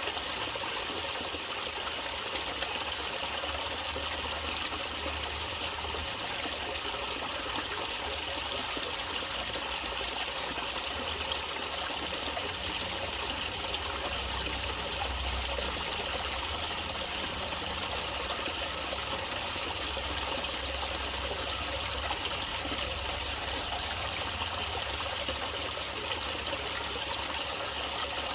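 Running water of a small stream, trickling and babbling steadily without pause.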